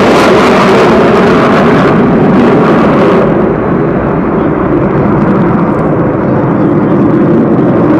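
Jet noise from four Blue Angels F/A-18 Hornets flying past low and slow in diamond formation with landing gear and tailhooks extended. The loud roar loses its hiss about three seconds in and carries on lower as the jets move off.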